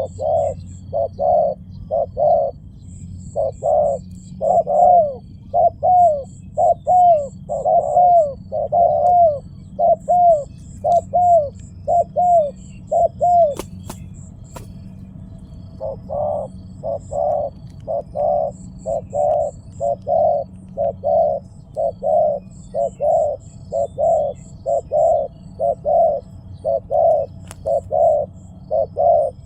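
Spotted dove cooing: a long run of short, hooting coos, about two a second, that breaks off for a couple of seconds near the middle and then resumes. Faint, rapid high chirps sound over the coos.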